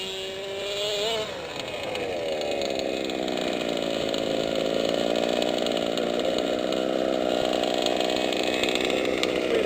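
Small two-stroke engine of a 1/5-scale gas RC car revving briefly about a second in. Its pitch falls away over the next couple of seconds, then it runs at a steady speed.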